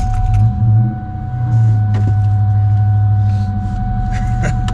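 A 2004 Mustang Mach 1's four-valve V8 running just after start-up, through its aftermarket cat-back exhaust. It wavers for about a second and a half, then settles into a steady, high idle as it warms up.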